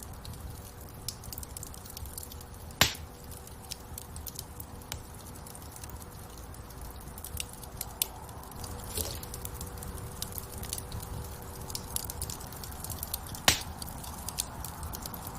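Wood fire crackling in a fireplace: many small scattered crackles over a low steady rumble of the flames, with two loud sharp pops, about three seconds in and near the end.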